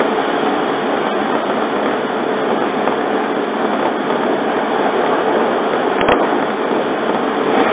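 Steady running noise of a JR 115 series electric train at speed, heard from inside the carriage, with a brief knock about six seconds in.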